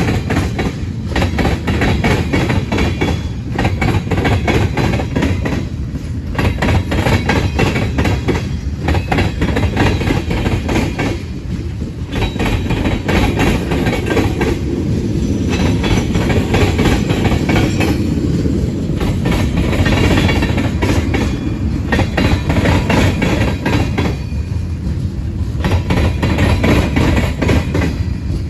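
Manifest freight train's cars rolling past, a loud, steady rumble and clatter of wheels on the rails that dips briefly every few seconds.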